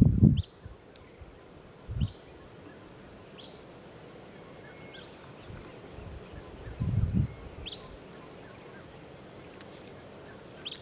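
A bird calling repeatedly, a short upward-sliding chirp every second or two, over a quiet outdoor background. Low rumbles break in at the start, about two seconds in and around seven seconds, the first the loudest.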